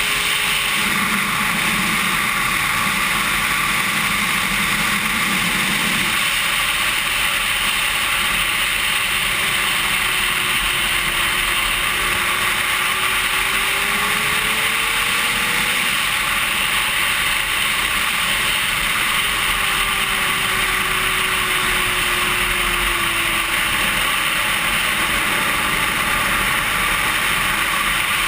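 Racing motorcycle at speed heard from an on-board camera: a loud, steady rush of wind noise over the engine, whose note rises and falls as it is throttled.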